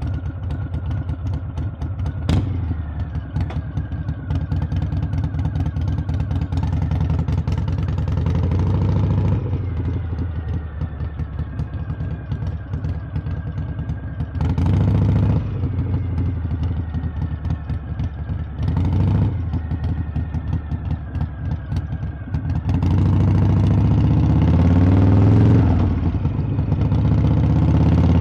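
Harley-Davidson V-twin engine and exhaust running under way, with a pulsing, uneven beat. There are two short louder surges about halfway through, and the engine is opened up and gets louder over the last five seconds.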